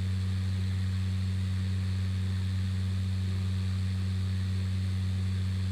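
Steady low drone of a Cessna 208 Caravan's turboprop engine and propeller in a climb, heard through the cockpit headset intercom as an unchanging low hum.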